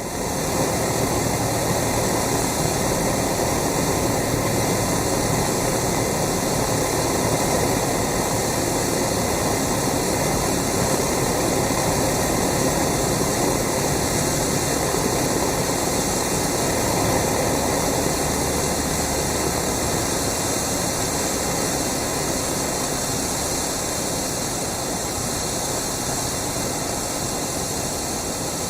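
Steady in-cabin drone of a Cessna 172's engine and propeller in flight, an even rushing noise with no change in pitch.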